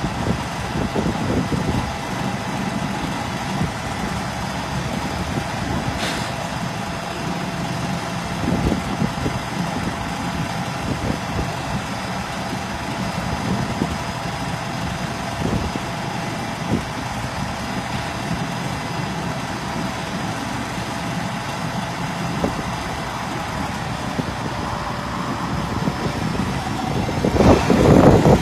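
1979 International Harvester 3588 2+2 tractor's turbocharged six-cylinder diesel running steadily at idle, with a thin steady whine over the engine note. There is one sharp click about six seconds in, and it gets louder and rougher near the end.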